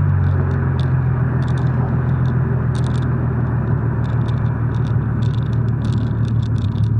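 BMW E36 M3 3.2 Evo's straight-six idling steadily through its new exhaust, with a deep, even exhaust note.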